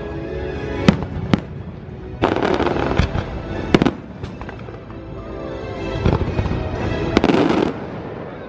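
Fireworks going off in a string of sharp bangs and crackles over the loudspeaker music of a nighttime fireworks show.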